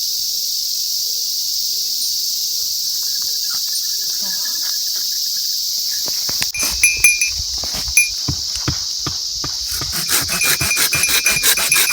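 Steady high-pitched chorus of insects trilling. A little over halfway through, irregular taps and knocks join in and come thick and fast near the end.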